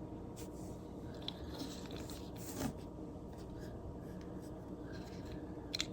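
Faint handling sounds of a diecast toy truck being turned over in the hands: light rubbing and scraping with a few small clicks, a slightly louder rustle about halfway through and a couple of sharp clicks near the end.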